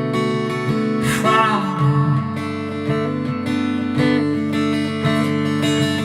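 Acoustic guitar strummed in an alternate tuning, with a man singing a held, wavering note about a second in.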